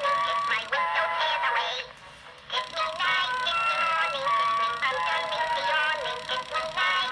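Gemmy animated Valentine's Tweety Bird toy playing its song: a sped-up, cartoon-like singing voice over music, thin with no bass, with a brief drop about two seconds in.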